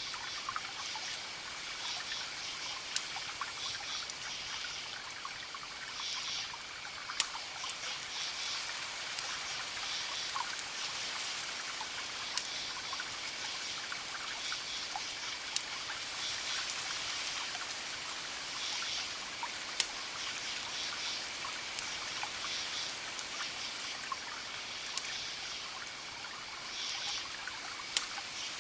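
Campfire crackling, with a few sharp pops standing out, over crickets chirping in repeated bursts and a steady high trill, and a soft steady wash of distant ocean waves.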